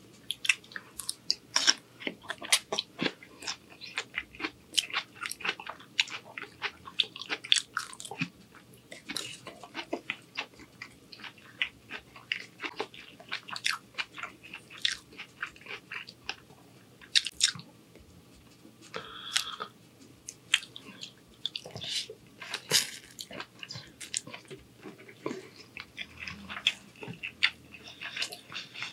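Close-miked chewing of a mouthful of asparagus and shrimp angel-hair pasta: a steady run of sharp, wet mouth clicks and smacks.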